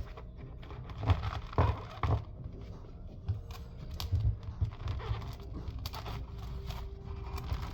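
Coconut husk being handled and pulled apart: scattered crackles, small tearing sounds and taps of fibre and shell, with a few louder bursts about one, two and four seconds in.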